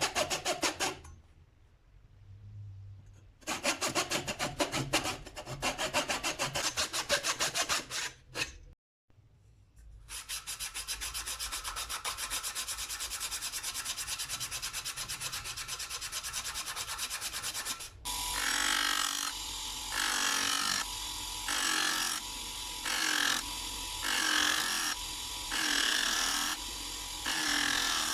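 Wood being worked by hand with quick back-and-forth abrasive strokes, in several runs broken by short pauses. About two-thirds of the way in, the sound changes to a pulsing rubbing that surges about once a second, with a faint steady tone.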